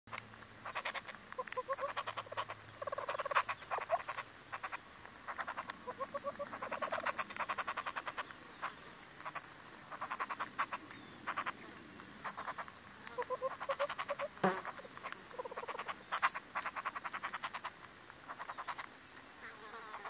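Wild birds calling: repeated short trains of rapid clucking, clicking notes every second or two, mixed with short runs of lower hooting notes, and one sharp click about halfway through.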